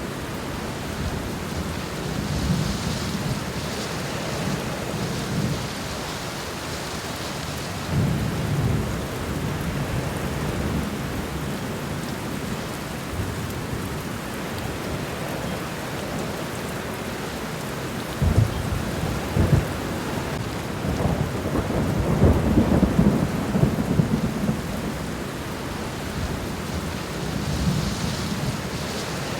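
Steady rain falling on the ground, with low rumbling swells that come and go, the loudest a little past halfway.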